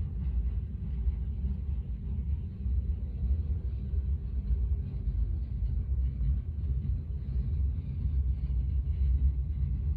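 Freight cars of a passing CSX manifest train rolling by: a steady low rumble of steel wheels on rail.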